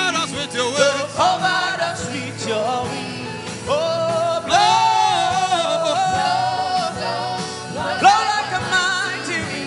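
Gospel worship music: a voice sings long, wavering held notes over sustained instrumental backing with a soft regular beat.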